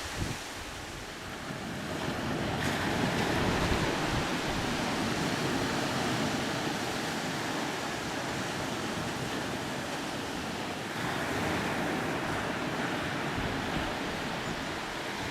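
Surf on a sandy beach: waves breaking and washing up the sand in swells, with wind buffeting the microphone.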